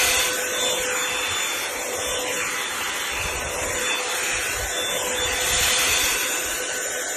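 Revlon One-Step hair dryer brush running: a steady rush of blown air over a constant motor hum.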